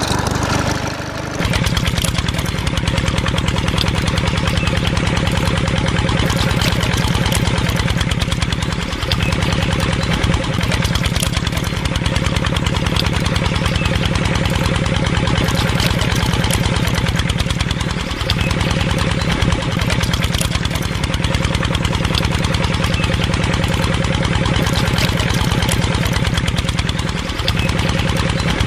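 Small homemade mini engine running steadily at a fast, even firing rate, starting about a second in, with a brief dip in its sound about every nine seconds.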